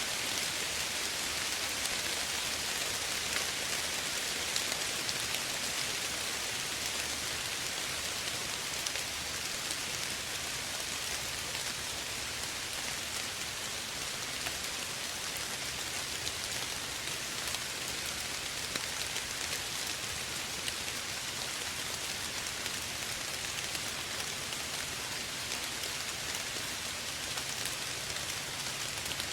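Steady gentle rain falling, an even hiss with scattered small drop ticks.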